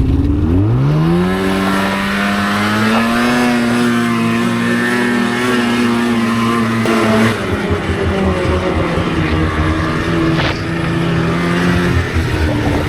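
Polaris RMK two-stroke snowmobile engine revving up sharply about half a second in as the sled pulls away, then running at a steady high pitch under throttle. It eases off briefly around seven seconds in and again near the end.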